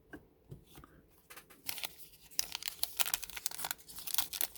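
Crinkling and tearing of a thin plastic card-pack wrapper being handled, a dense run of crackles and rustles starting about a second in after a few light clicks.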